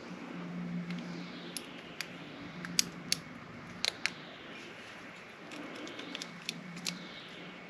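Small metal clicks and scrapes of a shim and pick being worked into a pin-tumbler lock cylinder: about a dozen sharp, irregular ticks over a low steady hum.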